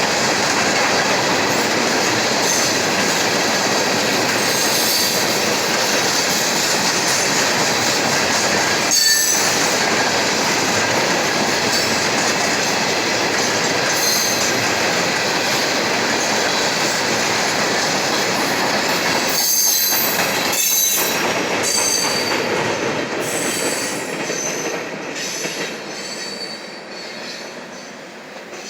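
Maryland Midland mixed freight train's cars rolling past, wheels clattering on the rails with scattered high-pitched wheel squeal. The sound fades away over the last several seconds as the end of the train passes.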